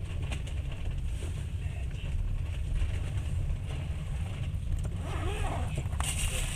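Passenger train rolling slowly, heard from inside the carriage: a steady low rumble with light rattles and clicks, growing brighter and hissier near the end.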